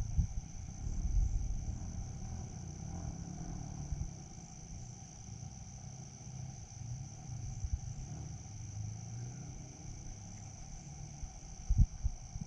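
Insects chirring steadily at a high pitch, over a low outdoor rumble. There are a few dull thumps, around the start and again about a second before the end.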